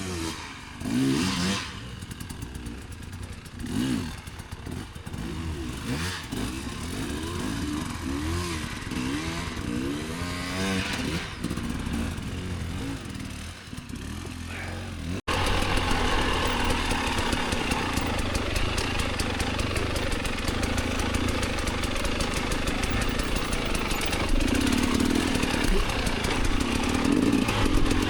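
Dirt bike engine revving up and down again and again, its pitch rising and falling with the throttle. About fifteen seconds in, the sound cuts abruptly to a louder, steadier engine run with a rough, noisy edge.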